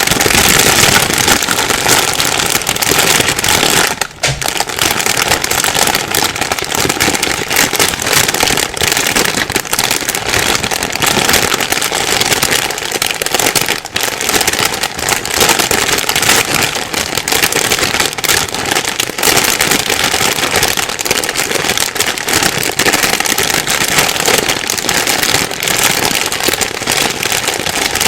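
Plastic bag being crumpled and rustled continuously: a dense, irregular crinkling crackle, with a brief lull about four seconds in.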